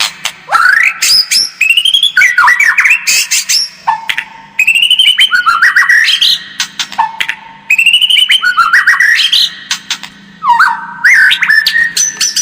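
White-rumped shama singing loudly in rapid whistled and chattering phrases. A similar phrase, opening on a held note and breaking into quick rising and falling whistles, repeats every few seconds.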